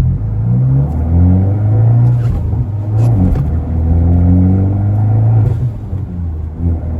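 Fiat 124 Spider Abarth's 1.4-litre turbocharged four-cylinder engine pulling away under load, its note climbing in pitch and dropping back at two gear changes, about three and six seconds in.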